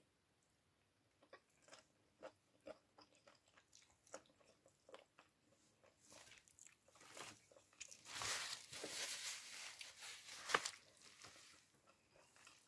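Close-up eating sounds of rice and chicken pochero eaten by hand: scattered chewing and mouth clicks, growing denser and louder from about eight seconds in, with one sharper smack near the end.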